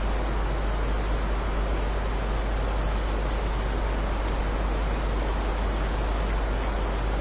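Steady heavy rain: a dense, even hiss with a strong low rumble beneath it, no single drops or thunder standing out.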